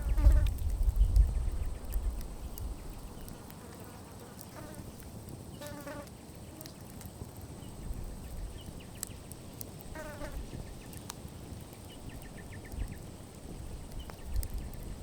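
Campfire crackling, with scattered sharp pops. A short wavering buzzy call sounds three times, about every four to five seconds, and a low rumble fades out in the first couple of seconds.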